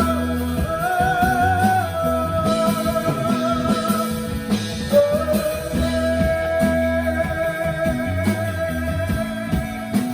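Indie rock band playing live: long held lead notes with a slight waver over a repeating bass line, guitars and drums.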